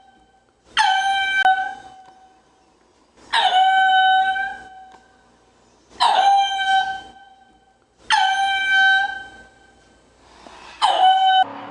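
An animal calling five times, about every two and a half seconds: each call starts sharply, dips slightly in pitch and is held for about a second. Near the end the calls cut off abruptly into a lower, steady sound.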